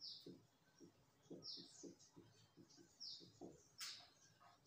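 Faint, short, falling chirps from a small bird, about one a second, with faint scratchy strokes of a marker writing on a whiteboard in the first few seconds.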